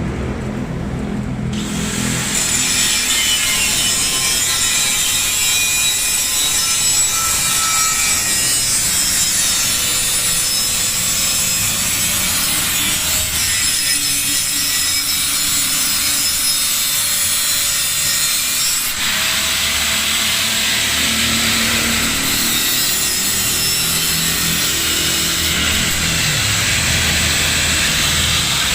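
A tool cutting metal, a steady loud rasping with thin whining tones above it, which turns harsher about two-thirds of the way in.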